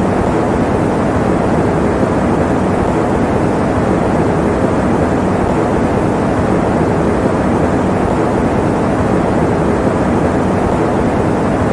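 Electric fan running with a steady, unchanging rush of air, deep rather than hissy.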